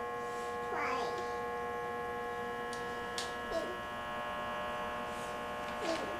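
Steady electrical hum with a high buzzing edge, with a small child's brief wordless vocal sounds now and then and a couple of light clicks a few seconds in.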